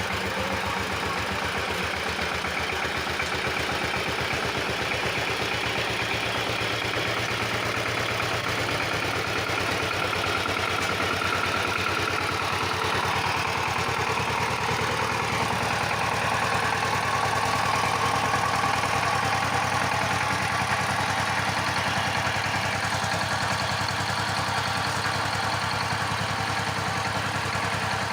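Power tiller's single-cylinder diesel engine running steadily with a rapid, even firing beat, growing slightly louder a little past the middle.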